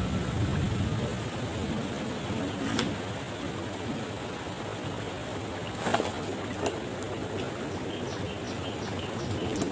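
Steady rain falling, an even hiss with a few sharp drips landing close by.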